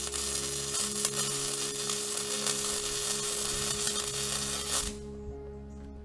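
Wire-feed (MIG) welding arc crackling steadily as a weld is laid on a steel excavator bucket, then stopping abruptly about five seconds in. A steady hum runs underneath and cuts off near the end.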